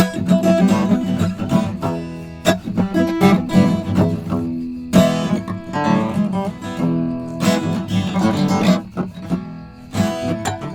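Acoustic guitar being strummed and picked, with struck chords and ringing notes.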